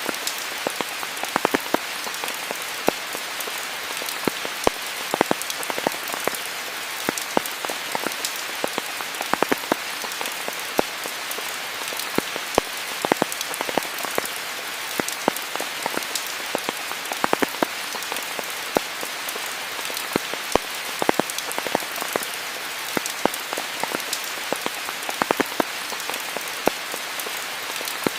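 Steady rain: an even hiss of rainfall with many individual drops landing close by as sharp, irregular ticks.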